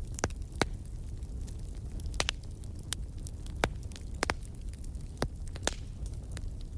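Wood fire crackling in a fireplace: irregular sharp pops and snaps, one to three a second, over a steady low rumble of the flames.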